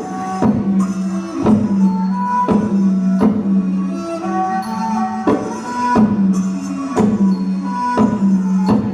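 Traditional Khmer music for the Apsara dance. A steady held low note runs under it, percussion strikes land about once a second, and a struck melody plays above.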